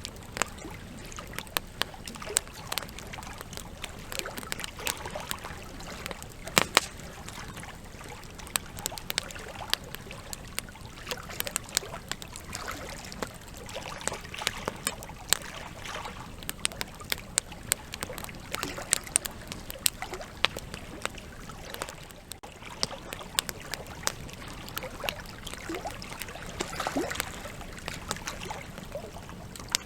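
Wood campfire burning, with frequent irregular crackles and pops over a steady hiss; one sharper pop about seven seconds in.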